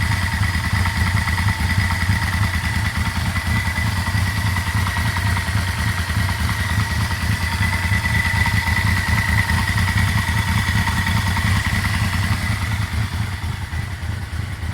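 Yamaha V-Max V4 motorcycle engine idling steadily, not yet fully warm, with a steady high-pitched whine above the engine note. A knocking is just starting to be heard as the oil warms, with oil pressure down to just below 20; the owner suspected low oil pressure.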